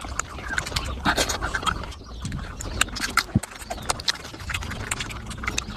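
Close-miked wet chewing and lip-smacking of a mouthful of mutton fat curry and rice: a dense, irregular run of short smacks and clicks.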